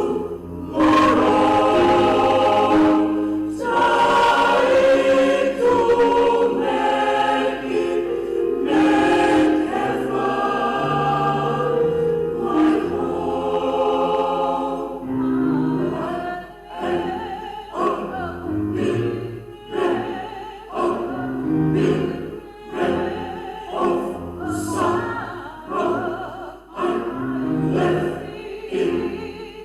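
Small choir singing in parts, low and high voices together, holding long chords, then moving into shorter, more rhythmic notes about halfway through.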